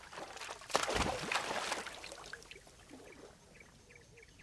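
Water splashing, with a sudden splash about three-quarters of a second in, then trickling and dripping that fades away.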